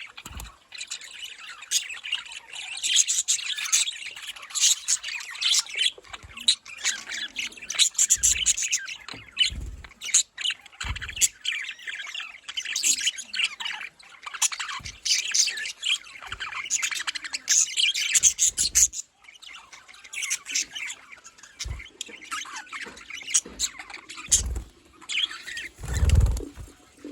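Budgerigars chirping continuously, many short high calls overlapping. A handful of brief low thumps sound in between, the loudest about a second before the end.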